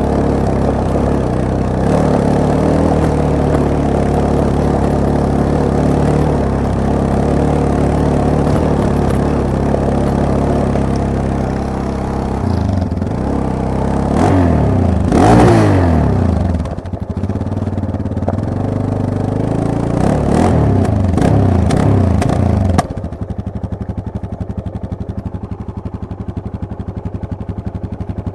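Yamaha MT-03 motorcycle engine running under way, steady at first, then revving up and down through gear changes. About 23 seconds in it drops suddenly to a quieter idle with an even pulsing beat.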